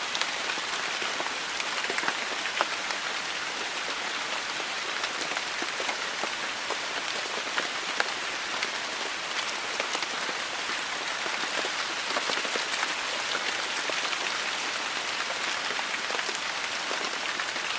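Heavy rain falling steadily on hard surfaces: a dense, even hiss with many sharp individual taps scattered through it.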